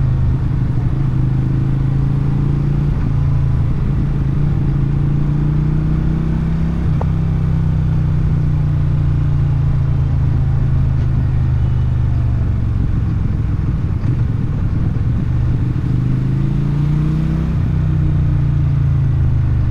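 Motorcycle engine and exhaust running at low, fairly steady revs while riding in traffic. The engine note eases down slowly through the middle and rises again near the end.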